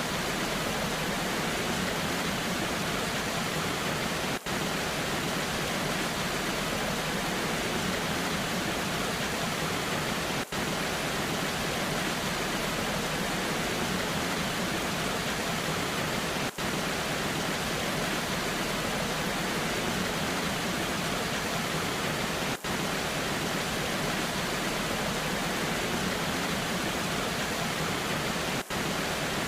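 Waterfall in the rain: a steady, even rushing of falling water. The rush is cut by a very brief dip about every six seconds.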